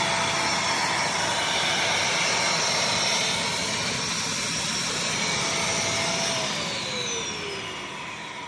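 Bissell CrossWave HydroSteam wet-dry vacuum running with a steady whine, then switched off about six seconds in, its motor spinning down in falling pitch.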